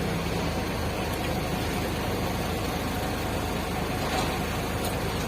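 Heavy vehicle's engine idling steadily, with an even low pulse.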